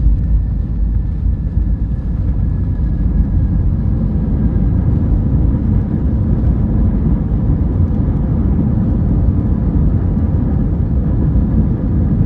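Airbus A321 jet airliner's engines and airframe during landing: a steady, loud low rumble with a few faint whining tones above it.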